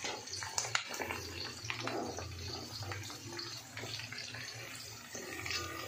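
Onion pieces and green chillies sizzling in hot oil in a carbon-steel wok, with a metal slotted spatula scraping and tapping the pan now and then as they are stirred. A low steady hum runs underneath.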